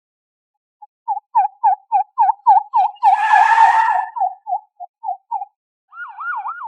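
Police car siren sounding in quick repeated up-down sweeps, about three a second, with a brief burst of noise about three seconds in and a faster wavering sweep near the end.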